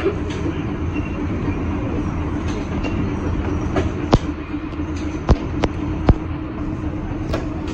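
NORTA 900-series streetcar running, heard from inside the car: a steady low rumble with a steady hum, broken by sharp clicks and knocks at uneven intervals.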